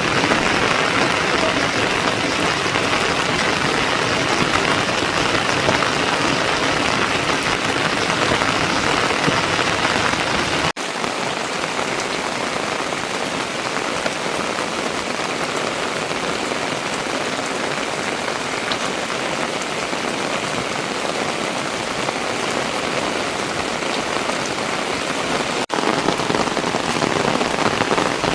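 Steady heavy rain, an even hiss, which briefly cuts out twice: about 11 seconds in and near the end.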